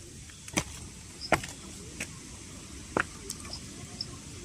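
Four sharp clicks or knocks, irregularly spaced, over a steady low rumble, with a cricket chirping in short, evenly spaced high notes toward the end.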